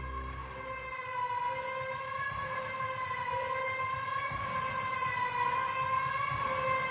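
A sustained, slightly wavering siren-like tone over a low rumble, a dramatic sound effect within a trailer-style soundtrack, between beats of the music.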